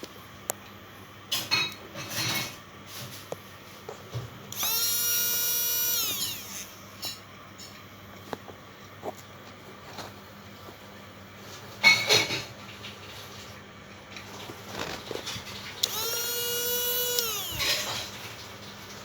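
A small electric motor whines at a steady pitch for about a second and a half and then winds down with a falling pitch. This happens twice, with scattered clicks in between.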